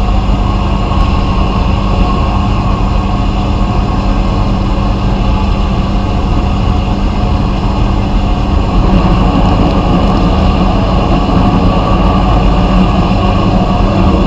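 Vapor blasting equipment running: a loud, steady machine noise with a constant hum, growing somewhat fuller about two-thirds of the way through.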